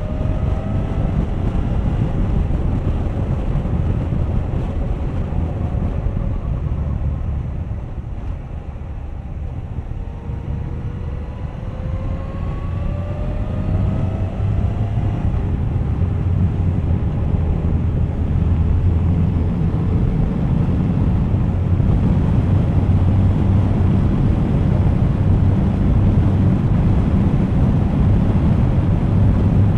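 Suzuki GSX1250FA inline-four engine under way with heavy wind rush on the microphone. The engine note rises as the bike accelerates near the start and again about ten to fifteen seconds in, after a brief dip in level. From there the wind noise grows louder and steadier at speed.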